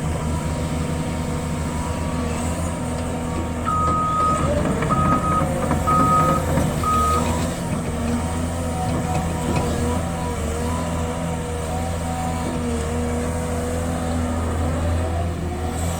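Caterpillar 320 excavator's diesel engine running steadily under working load, with a wavering hydraulic whine. A reversing/travel alarm sounds about four seconds in, one longer beep then three short beeps about a second apart.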